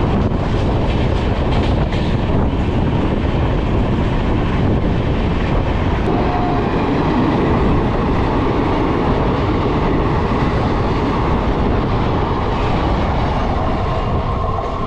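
A passenger train running at speed, heard close up from an open coach doorway: a steady loud rumble and rush of wheels on the rails. Another passenger train passes close by on the adjacent track, and the noise swells for a few seconds around the middle.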